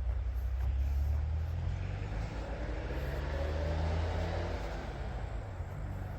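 A motor vehicle passing. Its low engine rumble and tyre noise swell to a peak about four seconds in, then fade.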